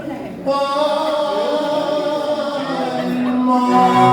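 Tango orquesta típica playing the song's closing bars in long held notes, a male voice singing with it; the orchestra swells about half a second in.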